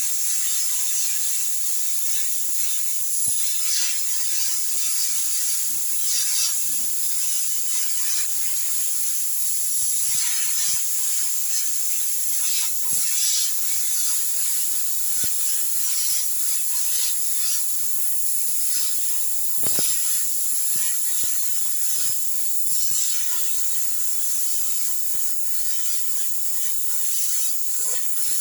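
Bonfire burning: a steady hiss with irregular sharp crackles and pops.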